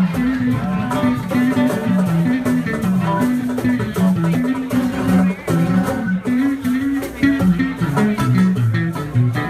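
Live band playing an instrumental passage: a bass line stepping from note to note under guitar.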